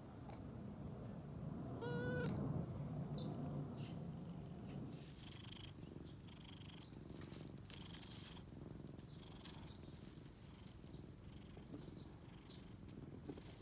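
A cat meows once, briefly, about two seconds in, over a low steady purr. From about five seconds on there are faint scattered clicks and rustles.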